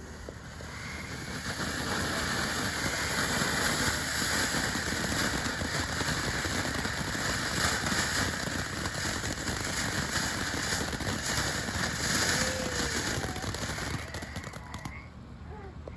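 Small consumer box fountain firework (Phantom Peach Flower and Spring) spraying sparks: a steady hiss that builds over the first couple of seconds, holds, then dies away about fourteen seconds in as the fountain burns out.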